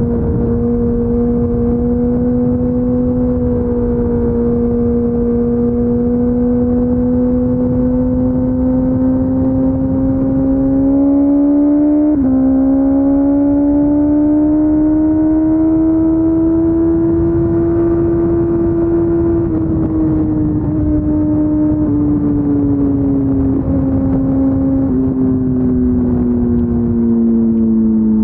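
Kawasaki ZX14R's inline-four through an Akrapovic Racing Line exhaust, running at a steady cruise. The engine note climbs slowly, hitches briefly about twelve seconds in, holds higher, then eases off over the last third as the throttle is rolled back, with wind rushing under it.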